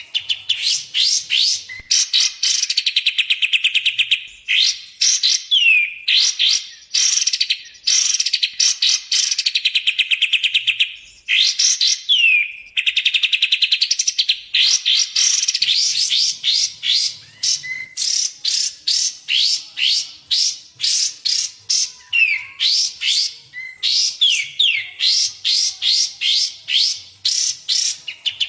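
Recorded songs of kapas tembak and cucak jenggot, the songbirds used as a masteran tutor track. The song runs as quick series of sharp rising whistled notes alternating with long, very fast rattling trills, repeated without pause.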